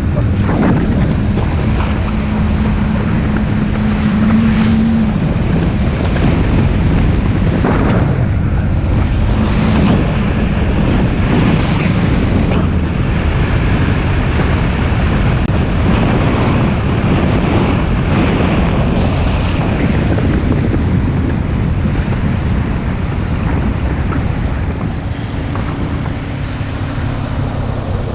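Wind buffeting the microphone over a moving motorbike's engine, a loud steady rush of noise, with a steady engine note through the first five seconds.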